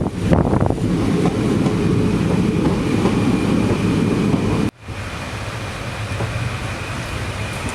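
Passenger train running on the rails, a dense rumble heard from on board. It breaks off abruptly about two-thirds of the way through and gives way to a quieter, steady rumble with a faint high tone.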